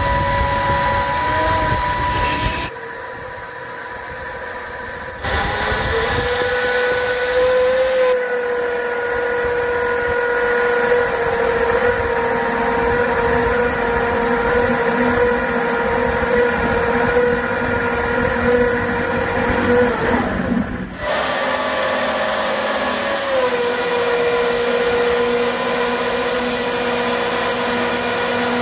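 A small electric motor running with a steady high whine over a hiss. It drops quieter for a couple of seconds about three seconds in, and cuts out briefly about three-quarters of the way through before running again.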